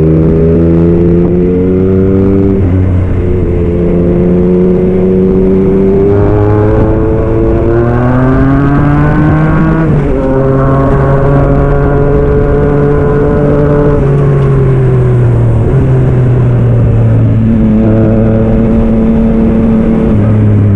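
Yamaha MT-09 SP's inline three-cylinder engine, breathing through an aftermarket Black Widow exhaust, pulling hard and changing gear. The revs climb from about six seconds in and drop sharply at a shift about ten seconds in, then fall away and step down a few times as the bike eases off.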